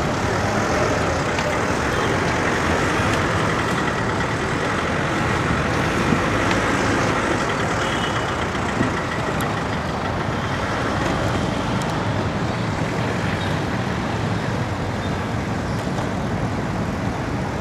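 Steady road traffic noise of passing motor vehicles, heard from a bicycle riding in city traffic. There are two brief knocks, one about six seconds in and another about nine seconds in.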